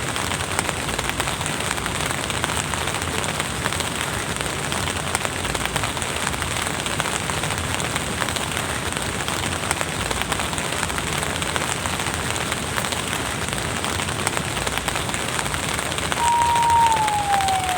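Steady light rain falling, with individual drops heard as fine ticks. About sixteen seconds in, a clear high tone starts, holds briefly, then slides down in pitch.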